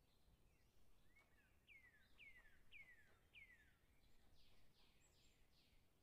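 Faint bird calls: a run of four clear whistles, each falling in pitch, about half a second apart, followed by a quicker run of about four shorter falling notes.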